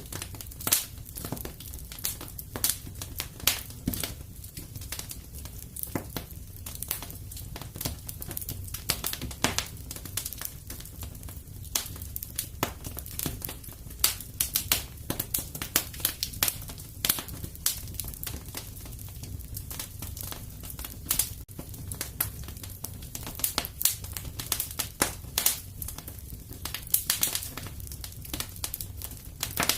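Wood fire crackling in a fireplace: frequent irregular sharp pops and snaps over a low, steady rumble.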